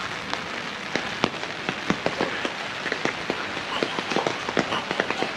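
Rain pattering, with many irregular sharp ticks of drops landing close by, several a second.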